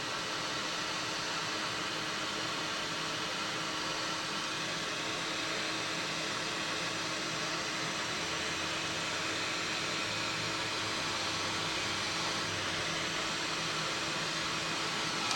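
Heat gun blowing steadily as it shrinks heat-shrink tubing over a spliced thermocouple wire: an even rush of hot air with a low fan-motor hum.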